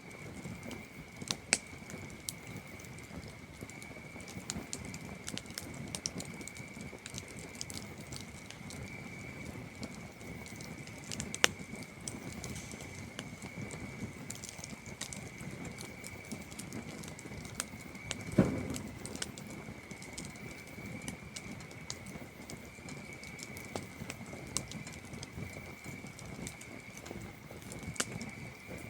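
Campfire crackling with scattered sharp pops, the loudest about eleven and eighteen seconds in, over a steady high-pitched trill of crickets.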